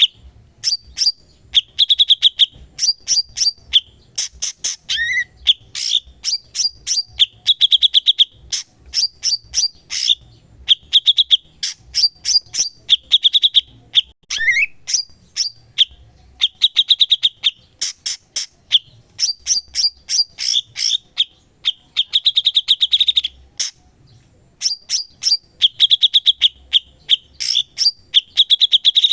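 Cucak cungkok singing continuously: rapid chattering runs of sharp notes and chirps, repeated in phrases about a second long, with a sliding whistled note twice.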